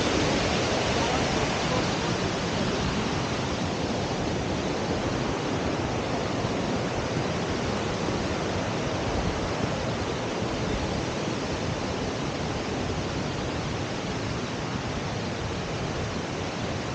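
Water rushing at a waterfall: a steady, even noise that slowly grows a little fainter.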